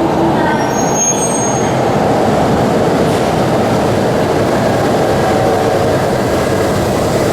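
Keihan Keishin Line train running on the rails, a steady dense rumble of wheels and motors, with a faint high squeal briefly about a second in.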